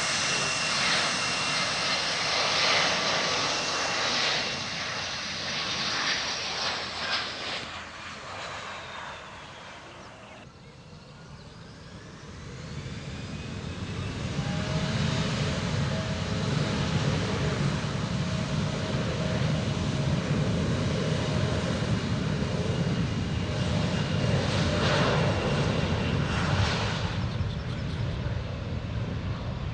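Airliner engines whining with steady high tones, fading away over the first several seconds. About twelve seconds in, engines spool up with a rising whine into a loud, sustained low roar of takeoff thrust.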